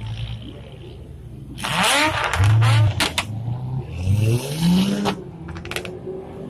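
Sports car engine revving hard twice, about two and four seconds in, the pitch rising with each rev.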